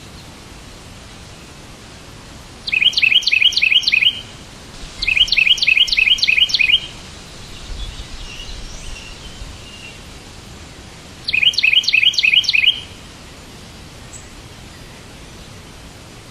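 A bird singing three bursts of rapid, evenly repeated chirps, each about a second and a half long, with softer twittering between the second and third, over a steady background hiss.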